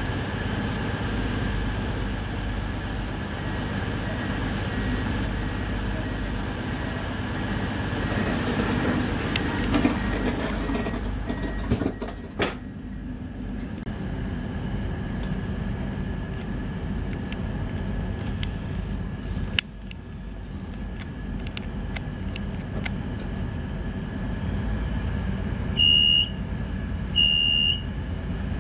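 Class 222 Meridian's underfloor diesel engine humming steadily while the train stands in a station. About eight seconds in a rushing hiss builds and ends in a sharp knock as the passenger door shuts, a single click follows later, and near the end two short high beeps sound about a second apart.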